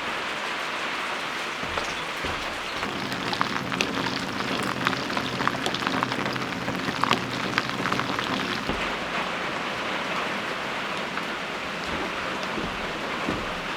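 Steady hiss of falling water, with a low hum and scattered sharp taps from about two and a half to nine seconds in.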